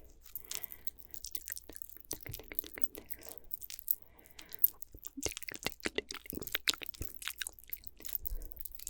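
Close-miked ASMR mouth sounds: a run of wet clicks and smacks, sparse at first and coming thick and fast in the second half.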